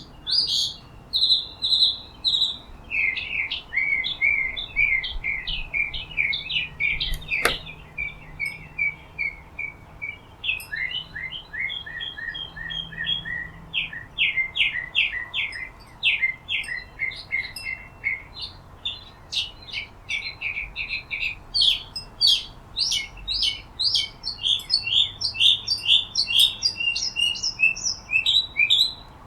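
Small birds chirping continuously: many short, rapid chirps overlapping in quick runs.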